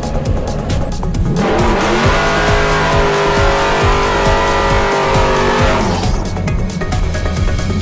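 A drift car sliding, with engine noise and a long tyre squeal through the middle, over background music.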